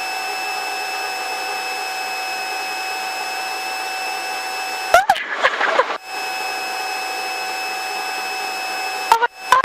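Helicopter cabin noise heard through the intercom headset feed: a steady hiss with a thin high whine. It is broken about five seconds in by a short crackly burst, and by sharp clicks and dropouts near the end, as the intercom cuts in and out.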